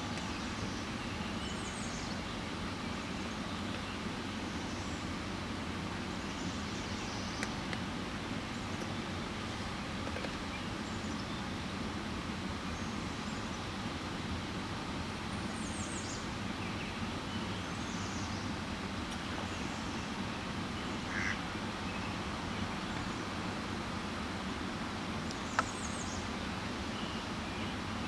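Occasional short, high bird calls over a steady background hiss and low rumble, with a single sharp tick near the end.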